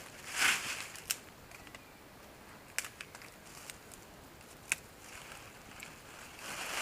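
Rustling and crunching handling noises: a short crunch about half a second in, a few sharp clicks spread through the middle, and more rustling near the end.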